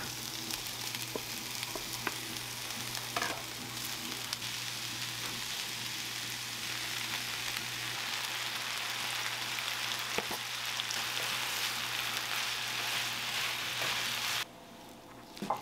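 Wood fire burning in a fireplace: a steady crackling hiss with scattered sharp pops. It cuts off suddenly near the end.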